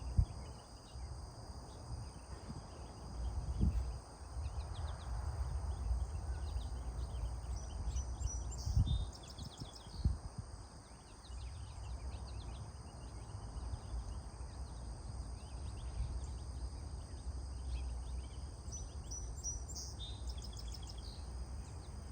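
Outdoor ambience: a steady low rumble, like wind on the microphone, with a few knocks, under steady high-pitched buzzing and a few short rows of faint high bird chirps.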